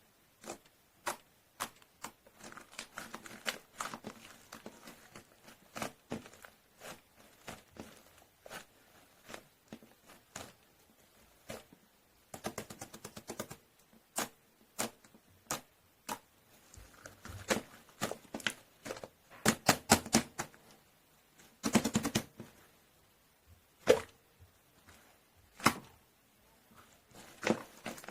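Gyeranjjim ('steamed egg') textured slime being pressed and worked by hand close to the microphone, giving irregular sharp clicks and pops, with a few denser, louder bursts of crackling a little after the middle.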